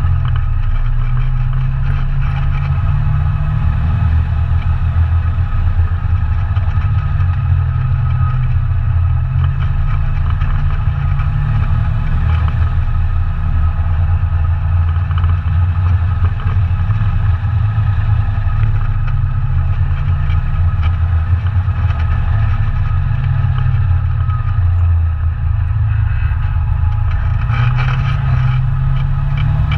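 ATV engine running continuously, its pitch drifting up and down with the throttle.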